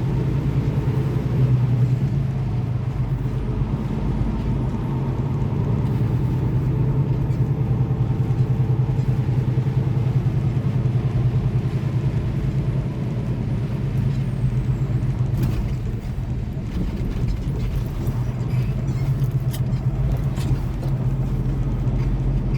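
Semi truck's diesel engine running steadily as the truck pulls away and drives with a heavy loaded trailer of about 75,000 pounds.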